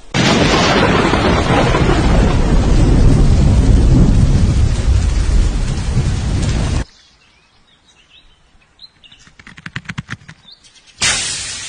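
A loud, steady rush of noise, heavy in the low end, that starts suddenly and cuts off about seven seconds in. Then it goes quiet, with faint bird chirps and a quick run of clicks, and near the end a sudden loud burst that fades away.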